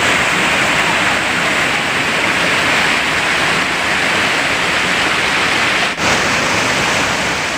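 Waterfall: a steady rush of falling water, briefly dropping about six seconds in.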